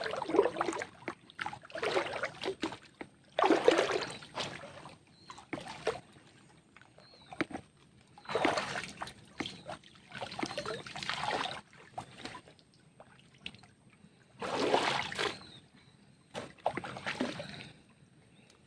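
Shallow, muddy river water sloshing and splashing in about eight irregular bursts as a drag net is hauled through it by hand.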